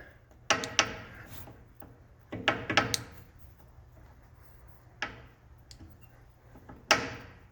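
Emco Maximat Mentor 10 lathe running with a low steady hum while its speed and feed levers are shifted: sharp metallic clunks about half a second in, a cluster around two and a half to three seconds, and single ones at five and near seven seconds, each ringing briefly.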